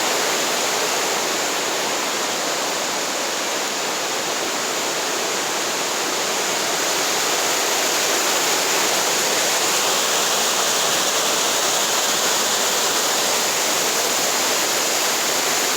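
Steady rush of a waterfall and its fast-running river.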